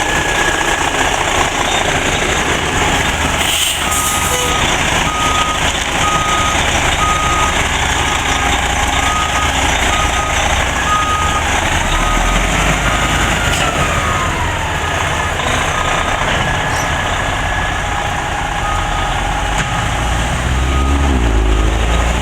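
A heavy vehicle's reversing alarm beeping at an even pace for about nine seconds, over the steady running of heavy diesel machinery. A falling whine follows just after the beeping stops.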